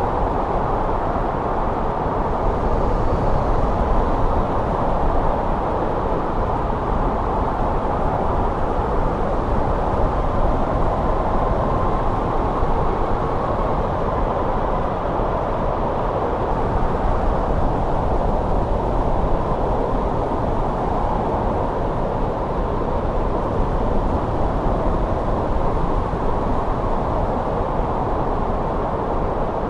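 Winter wind blowing steadily, a low rushing noise with a faint whistling tone that wavers now and then.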